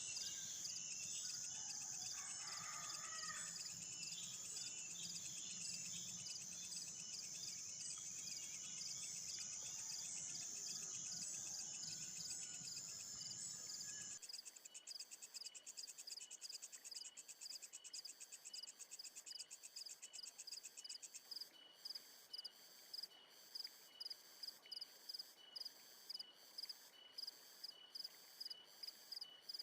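Insects, crickets among them, chirping in a steady high buzz with a few faint chirps beneath. About halfway through the sound changes abruptly to a rhythmic pulsing chirp, about two pulses a second.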